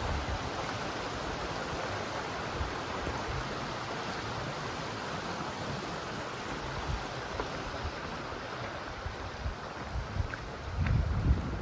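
Steady rush of fast-flowing river water, with wind buffeting the microphone at the start and again near the end.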